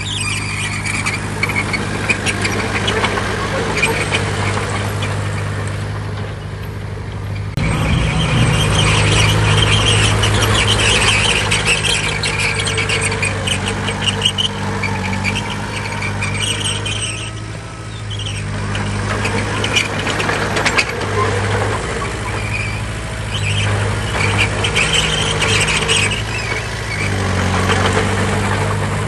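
Crawler bulldozer's diesel engine running steadily, with a high metallic squeal from its tracks. The engine gets louder suddenly about eight seconds in.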